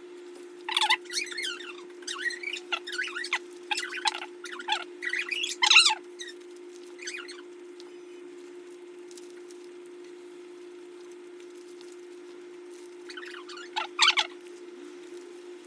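Crisp crackling and crunching from a Subway sandwich being handled and eaten, in quick clusters through the first half and once more near the end. A steady low hum runs underneath.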